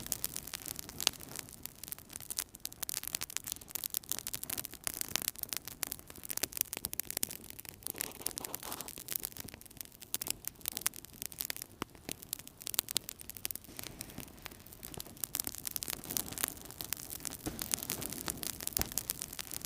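Wood fire burning in a fireplace, with a dense, continuous run of small crackles and snaps over a soft low rush of flame.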